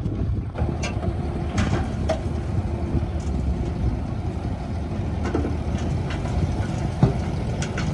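Heavy diesel construction machinery running steadily at a low, even engine note, with a few faint knocks and clanks.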